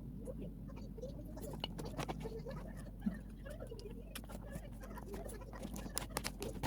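Close-up eating sounds: chewing with many small wet mouth clicks and smacks, over a low steady hum.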